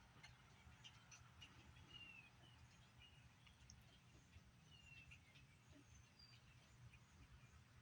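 Near silence with a low hum, a few faint short high chirps from young animals, and scattered small clicks.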